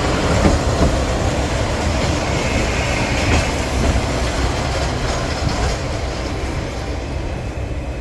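Train running on rails: a steady loud rumble of wheels and carriage, with a brief higher squeal near the middle.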